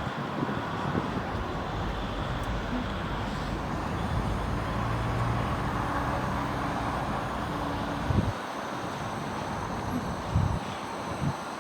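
A vehicle's steady running rumble, with a low hum swelling in the middle and three short thumps near the end.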